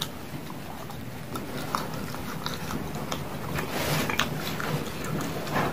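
Close-miked chewing and wet mouth smacks of a mouthful of rice and chilli sausage, with squishing as a hand scoops rice off a metal tray about four seconds in.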